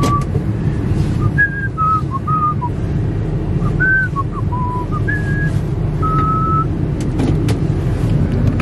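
Ford truck's 6.0 diesel engine running steadily in the cab as the truck is driven slowly, with a person whistling a tune of short notes over it. A few sharp clicks about seven seconds in.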